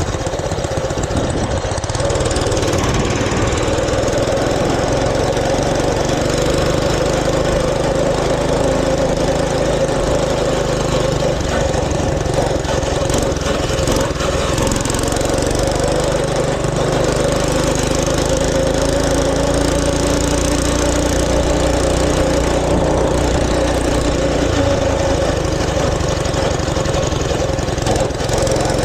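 Mini bike's small engine running continuously under way, its note shifting a little with the throttle.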